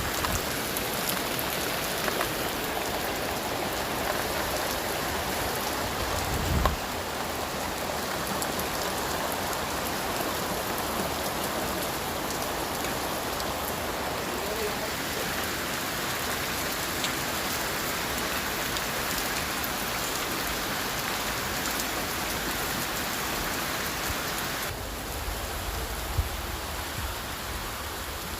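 Steady rain falling on hard surfaces with scattered drips, an even hiss throughout. A short low thud comes a quarter of the way in, and near the end the hiss softens as a low rumble comes in.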